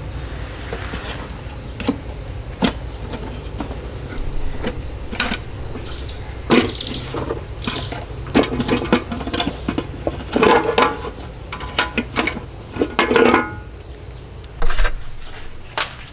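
Irregular knocks, clinks and rattles of hand work on a car, louder and more frequent in the second half, over a steady low hum.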